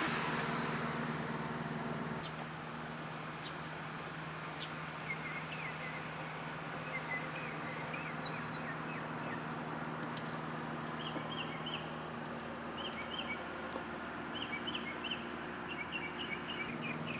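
Small birds chirping in short, repeated phrases over a steady low hum. A louder passing rumble fades out in the first couple of seconds.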